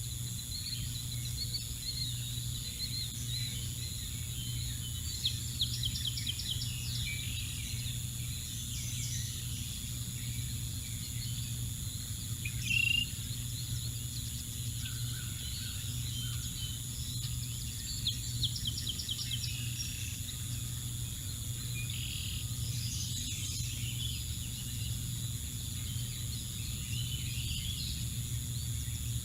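A steady low hum, with birds calling now and then: two rapid series of high ticking notes and a few scattered high chirps.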